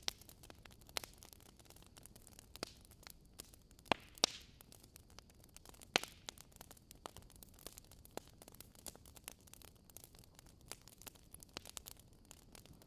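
Wood fire crackling in a fireplace: a steady scatter of small, irregular snaps over a faint hiss, with a few louder pops about four and six seconds in.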